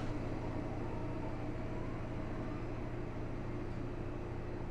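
Steady low machine hum with a faint even hiss, holding constant with no change.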